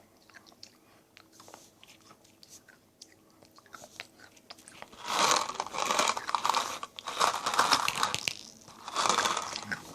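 A child biting and crunching something hard close to the microphone. There are faint small clicks at first, then loud crunching starts about halfway through, and a second burst comes near the end.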